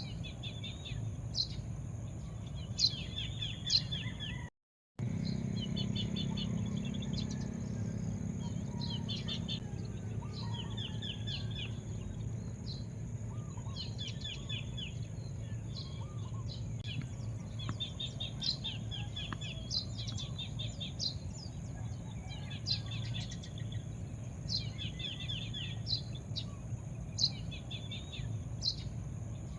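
Small birds chirping over and over in short, quick trilled bursts every second or two, over a steady low background rumble. The sound cuts out completely for about half a second near the start.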